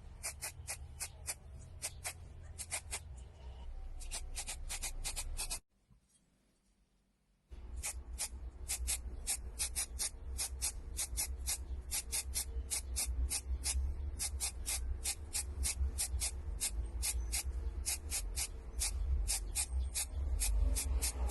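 A tool scraping on wood in quick, short strokes, about four a second, over a low rumble. It breaks off for about two seconds about six seconds in, then carries on.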